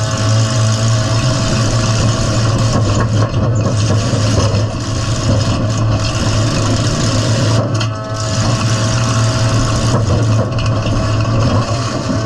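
Demolition derby midsize car's engine running hard, heard from inside the stripped-out cabin: a loud, steady low drone under a wash of mechanical noise, holding a fairly even pitch.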